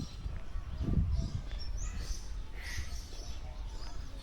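Mixed birds chirping and calling in an aviary: short chirps and quick rising calls, with a brief low rumble about a second in.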